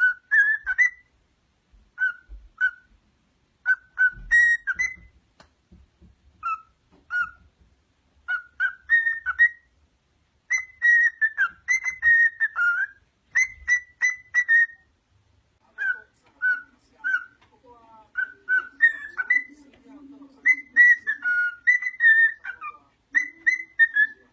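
A parrot whistling short, chirpy notes in quick groups of two to five, some rising in pitch, with short pauses between the groups.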